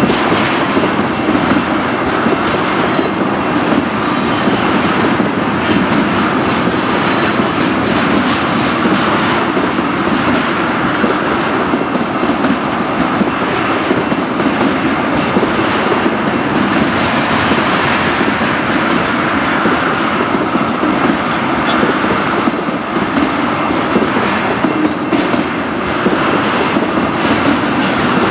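Ethanol tank cars of a freight train rolling past at close range: a steady rumble of wheels on rail, with irregular clicks as the wheels cross rail joints.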